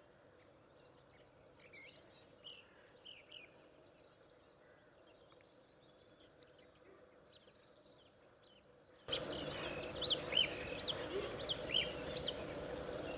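Wild birds singing: a scatter of short chirps and whistles over a faint steady hum. About nine seconds in, the sound jumps abruptly louder, with the calls much clearer.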